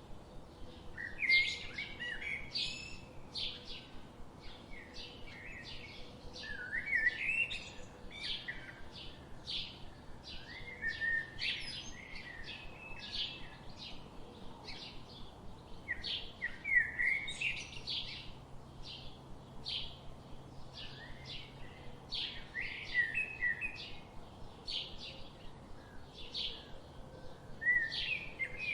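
Forest birds chirping and singing in a dense chorus of short, overlapping calls and trills that never stop.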